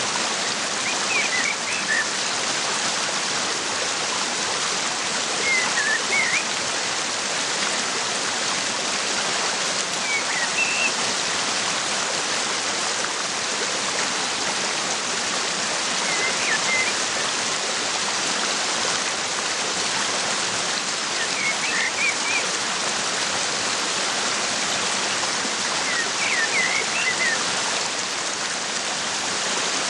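Waterfall rushing steadily, with brief bursts of bird chirps about every five seconds.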